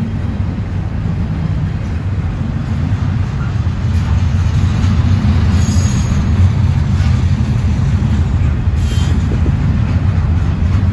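Double-stack intermodal freight train rolling past at trackside: a steady, loud low rumble of the well cars' wheels on the rails, growing a little louder about halfway through. Two brief faint high-pitched sounds come over it, one a little past the middle and one near the end.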